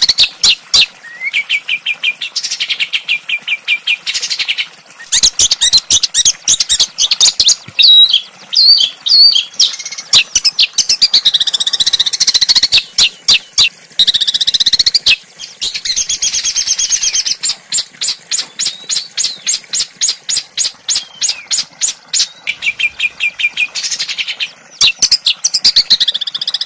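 Small songbirds singing in a continuous stream: runs of rapid repeated sharp notes and trills, broken by looping, swooping whistled phrases.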